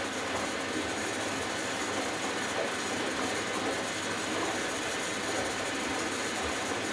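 Hoover Dynamic Next DXA610IW3 front-loading washing machine in the first rinse of its Delicates cycle: a steady noise of water in the turning drum.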